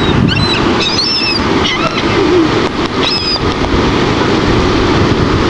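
Seagulls calling in short, high cries, several in quick succession in the first second and a half and again about three seconds in, over a steady rush of surf and wind on the microphone.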